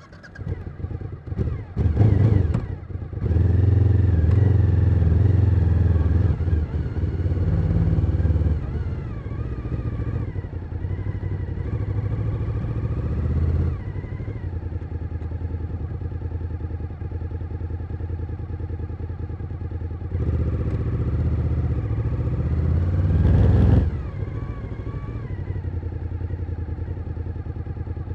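Suzuki SV1000N's 90-degree V-twin engine under way on the road. It is loud through the first several seconds as the bike pulls away, then settles into steadier running. Past the middle the note rises again under throttle, drops off sharply just before the last few seconds, and then runs on steadily.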